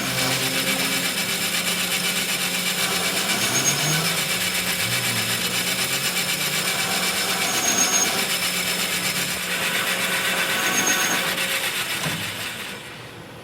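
A power tool running steadily on metal in a workshop, stopping near the end.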